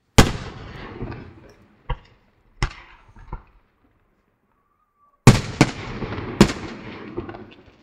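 Aerial firework shells bursting: sharp bangs, each trailing off with a rumbling decay. One big bang opens, three smaller ones follow over the next few seconds, then after a brief lull a quick run of three or four bangs comes near the end.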